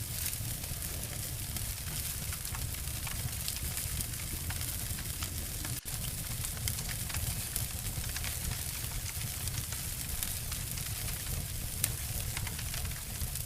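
Two wood fires layered together, crackling and snapping steadily with many sharp pops over a low rumble, with a momentary drop-out near the middle.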